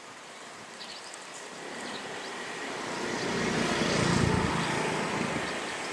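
A passing road vehicle: traffic noise that builds to a peak about four seconds in and then fades.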